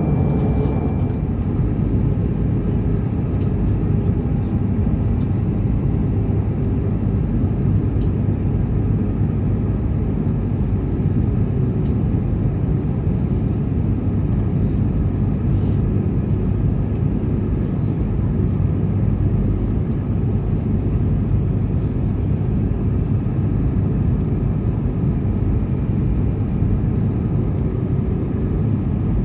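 Steady cabin noise inside an Airbus A320 airliner coming down toward landing. Air rushes past the fuselage over the engines' low drone, with a faint steady hum on top.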